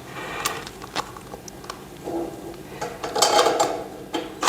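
Clicks and knocks of furniture parts and screws being handled during assembly, with a short rasping, grinding stretch about three seconds in.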